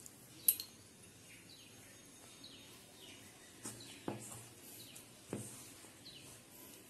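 Faint bird chirps, short falling notes that recur every second or so. Under them are the soft sounds of dough being kneaded by hand in a steel bowl: a sharp click about half a second in, and a few dull knocks later on.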